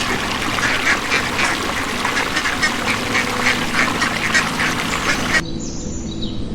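Many ducks quacking at once in a dense, busy chorus that cuts off suddenly about five seconds in. It gives way to small birds chirping over soft background music.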